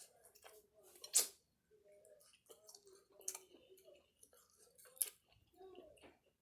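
Quiet eating sounds: three sharp clicks or smacks, about two seconds apart, with smaller ticks between, over faint wavering background voices.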